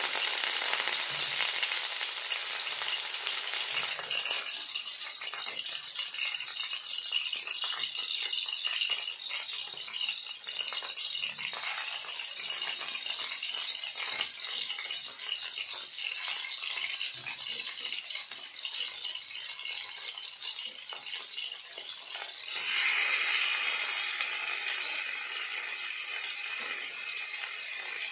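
Food sizzling and crackling as it fries in a hot pan, with the hiss swelling louder for a moment about two-thirds of the way through.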